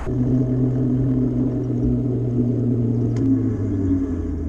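A motor vehicle's engine running with a steady low hum; its pitch drops slightly about four seconds in.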